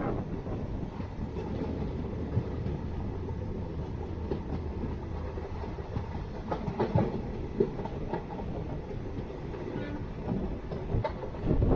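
Jan Shatabdi Express passenger train running along the track: a steady rumble with scattered knocks and clatter from the wheels over the rails, heaviest about halfway through and near the end.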